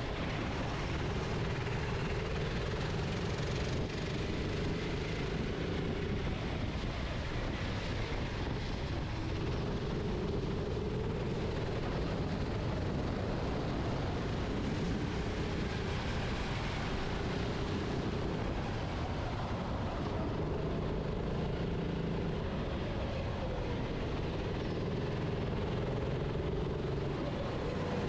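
Onboard sound of a racing kart's engine running at speed, its note swelling and falling back every few seconds as the kart accelerates and slows through corners, over a steady rush of wind and tyre noise.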